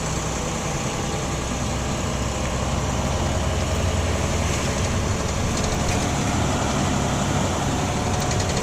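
Diesel engine of an International 4300 box truck running steadily as the truck drives along, with a low, even hum.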